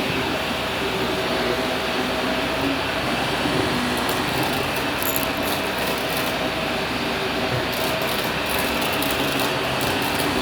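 Vacuum cleaner running steadily, with scattered faint high ticks from about four seconds in.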